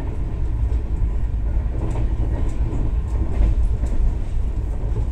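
Passenger train running at speed, heard from inside the coach: a steady low rumble with a few faint clicks.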